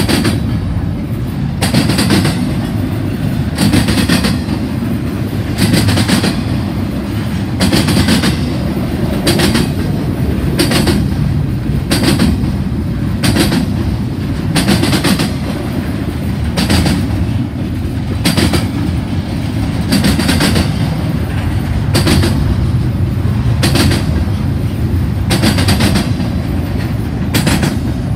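Double-stack intermodal well cars rolling past with a steady low rumble. Sharp wheel clacks over the rail joints come in pairs every second or two.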